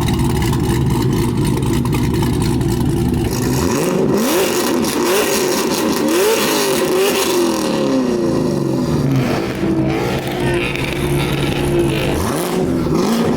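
Loud car exhaust with the engine rumbling low, then revved several times in quick rises and falls about four seconds in, settling on a steadier note before one more rev near the end.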